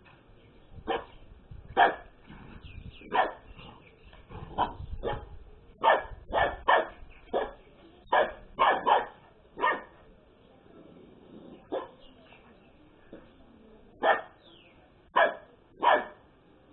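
Pet dog barking repeatedly in play, short sharp barks at an irregular pace, some coming in quick twos and threes, with a lull of a few seconds past the middle.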